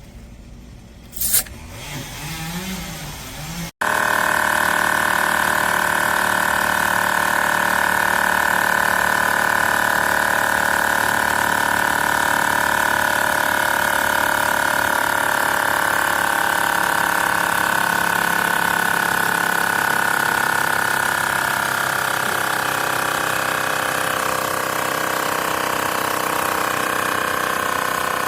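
AstroAI L7 portable electric air compressor switching on suddenly about four seconds in, after a single click, then running steadily with a loud buzzing whine. Its pitch sags slightly later on.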